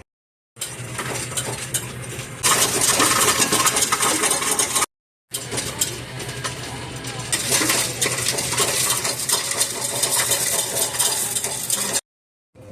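Busy clinking and clattering of small hard objects, many quick knocks and clinks close together, in three short stretches broken by two brief silent cuts; louder from about two seconds in.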